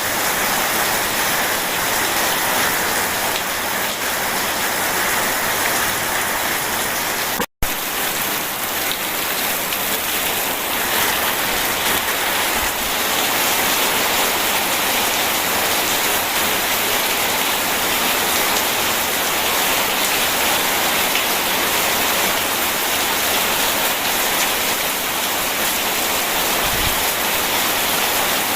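Steady heavy rain falling and splashing on surfaces, with a split-second dropout and a click about a quarter of the way through.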